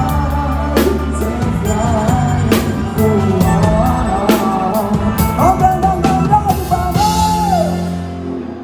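Live band playing a song with a male lead vocal over drums, bass and guitar. Near the end the singer holds a long note that slides down, and the band stops.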